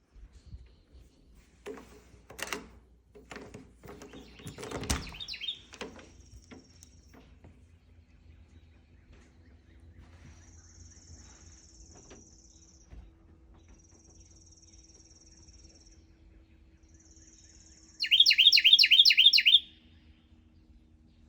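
A bird calling in a rapid series of about eight sharp chirps near the end, the loudest sound. Earlier there are scattered light knocks and rustles, and later three stretches of faint high buzzing.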